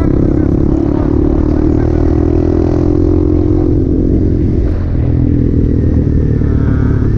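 Honda Grom 125 cc single-cylinder four-stroke engine running on the move, its note sinking slightly before a brief dip about five seconds in, then holding steady again.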